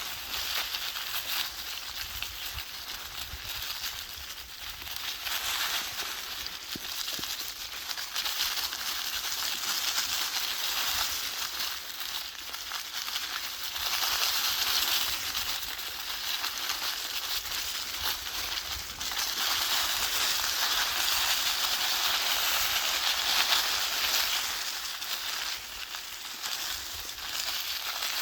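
Rustling of dry autumn leaves in a forest, a steady hiss that swells and eases over several seconds, with a faint low rumble underneath.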